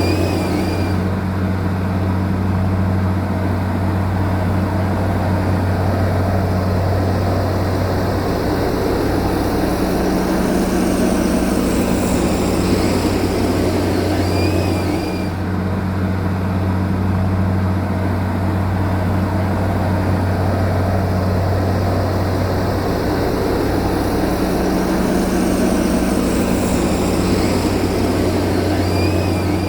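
Heavy diesel engine of a bulldozer or similar earthmoving machine running steadily under load, a continuous low hum with rough mechanical noise over it.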